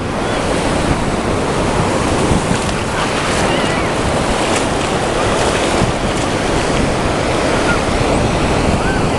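Ocean surf and wind on the microphone, a steady rushing noise. A few faint short bird calls come through in the middle and near the end.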